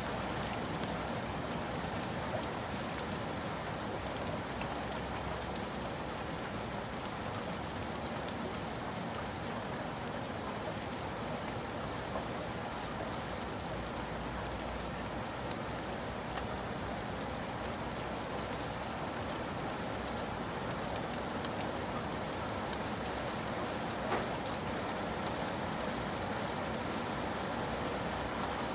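Steady rain falling, with individual raindrops ticking on a surface now and then.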